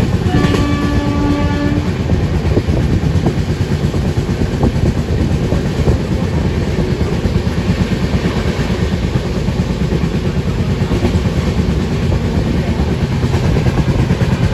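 Humsafar Express train running at speed: a steady loud rumble and clatter of the coach's wheels on the rails. A single train horn blast sounds about half a second in and lasts about a second and a half.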